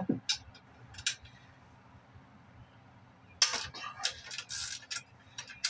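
Hand tools on metal: sharp metal clicks and clinks, a couple single ones early, then a quick run of clicking and clatter that lasts about a second and a half, starting about three and a half seconds in.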